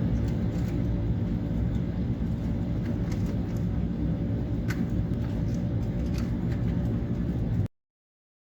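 Steady, loud rumble of an aircraft in flight, engines and airflow, with a few faint clicks; it cuts off suddenly near the end.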